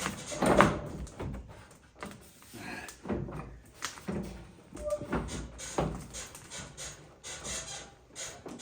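Irregular metallic clunks and knocks as a pickup truck's cab door is shifted and worked on its hinges while being hung and lined up. The loudest knock comes about half a second in.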